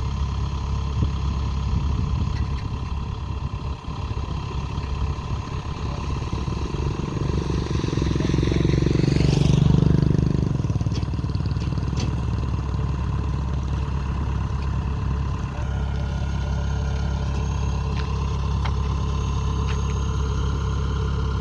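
Kubota combine harvester's diesel engine running steadily, swelling louder for a couple of seconds around the middle and then settling back to its even running.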